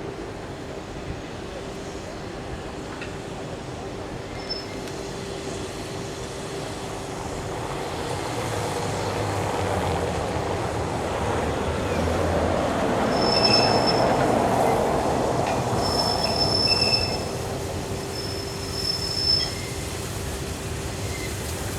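A train running on the rails, its rumble building to a peak about two-thirds of the way through over a steady hum, with high-pitched wheel squeal coming and going in the second half.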